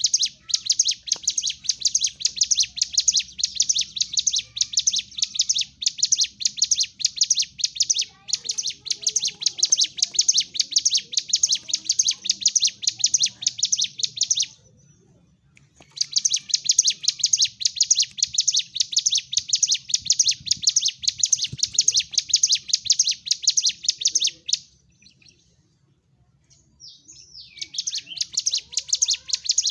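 Ciblek gunung, a prinia, singing a fast, shrill chattering song of rapidly repeated high notes in long bouts. It breaks off twice, the second time briefly giving a short gliding call before the chatter resumes.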